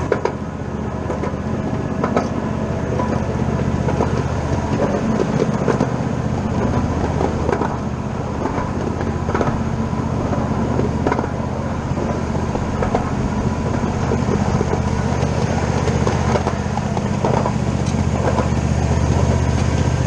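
Live steam ride-on train running on its track: a steady low hum with many small scattered clicks.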